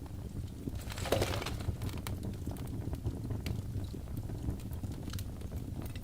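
Birch logs burning in a fireplace: a steady low rumble of the fire with scattered sharp crackles and pops, and a brief louder hissing flare of crackles about a second in.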